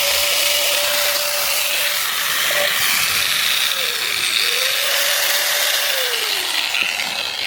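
Angle grinder motor running at full speed with a high whirring hiss, slowing briefly about halfway and speeding back up, then winding down near the end.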